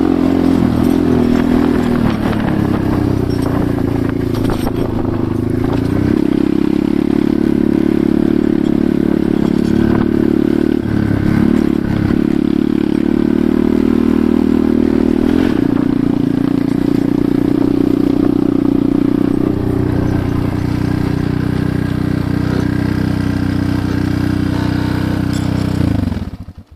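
Enduro motorcycle engine running while riding, with clatter and scraping over the rough ground; the revs dip and pick up again several times. Near the end the engine pitch falls and the sound stops abruptly.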